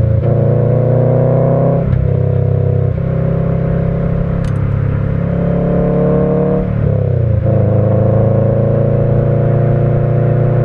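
Subaru EJ20 turbo flat-four with stock unequal-length headers and a Kakimoto Regu.06&R muffler, giving the off-beat boxer rumble, pulling under load. Its pitch climbs slowly, dips briefly about two and three seconds in, and drops and recovers again around seven seconds in before holding fairly level.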